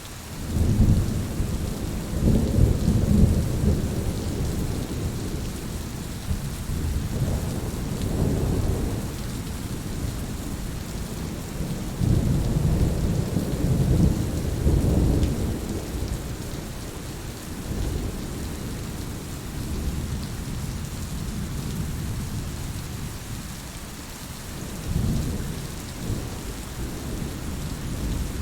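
Heavy rain falling steadily, with deep rolls of thunder swelling and fading several times: a long rumble near the start, others a little later and in the middle, and a shorter one near the end.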